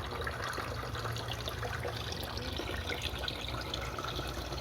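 Water gurgling and trickling as hose water pushes trapped air out of a PVC siphon line, restarting the siphon. A steady low hum runs underneath.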